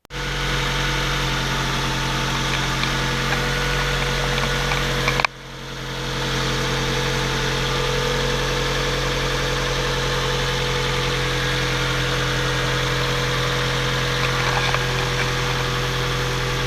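1999 Mazda MX-5 Miata's 1.8-litre four-cylinder engine idling steadily after a cold start, heard through a camera's built-in microphone. About five seconds in, the sound drops out sharply and swells back over a second.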